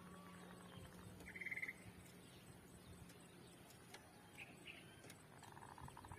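Faint zebra dove (merbuk) calling: a short rapid pulsed trill about a second and a half in, and a stuttering pulsed coo near the end, over a faint steady hum.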